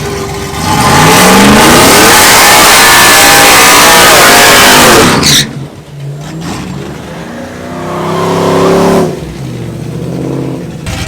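Two V8 pickup trucks launching off the line at a drag strip, their engines revving up hard and climbing in pitch as they accelerate away. The sound drops off suddenly about five seconds in, then an engine rises again and fades near the end.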